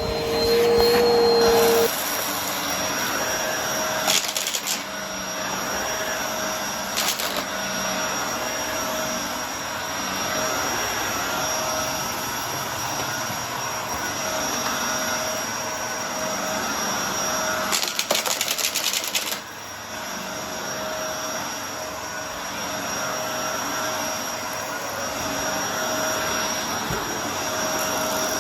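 Brushroll vacuum cleaner running steadily, with a steady high whine over its motor noise. A louder tone stops about two seconds in, and short bursts of rattling come at about four, seven and eighteen seconds in.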